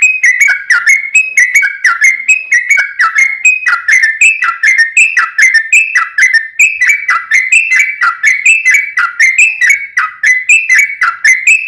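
Yellow-vented bulbul (trucuk) singing a long, unbroken run of quick, bubbly whistled notes, each one falling in pitch, several a second.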